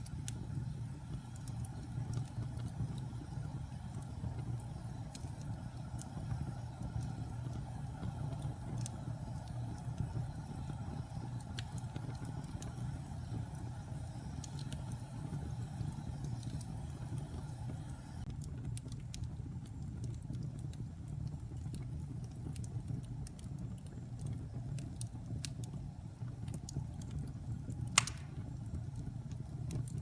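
Wood fire burning in a fireplace: a steady low rumble of flames with scattered small crackles, and one sharper pop near the end.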